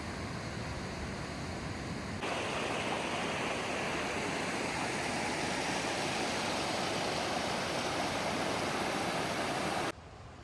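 Shdugra Waterfall's falling water, a steady rush. It jumps louder and brighter about two seconds in and drops away suddenly near the end.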